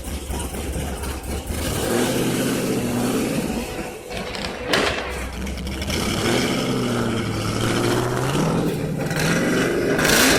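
A car engine idling low, then revved several times, its pitch climbing and falling with each rev, with one brief sharp crack about halfway through.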